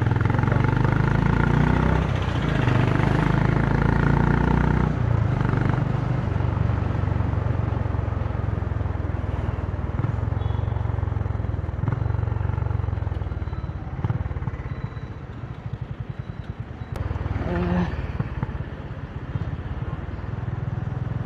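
Honda CB350's single-cylinder engine and exhaust running under way, strongest in the first few seconds. Around two-thirds of the way in it eases off to a slower, even thumping before picking up again.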